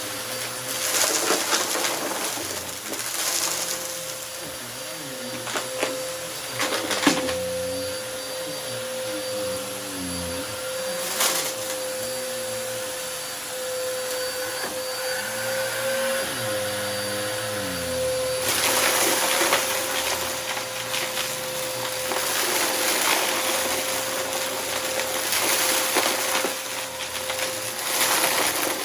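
Upright vacuum cleaner running with a steady whine, picking up a mess of debris from a rug, with scattered crackles and ticks as bits are sucked in.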